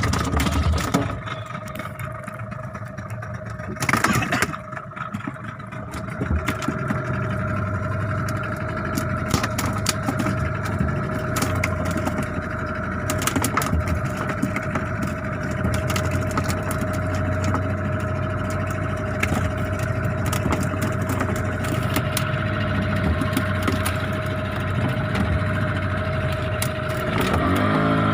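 Fishing boat's engine running steadily at low speed, a low hum with a steady whine over it and scattered clicks. Near the end the engine speeds up, its pitch rising.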